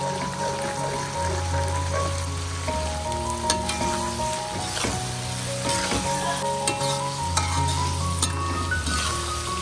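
Food sizzling as it is stir-fried in a hot pan, with the spatula knocking against the pan now and then.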